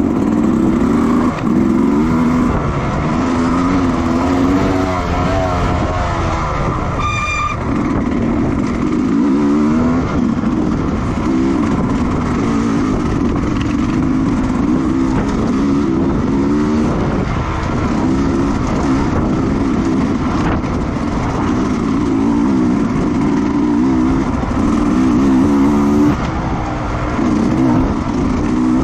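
Racing motorcycle engines running hard on a track, the revs rising and falling continuously through gear changes. A short high beep sounds about seven seconds in.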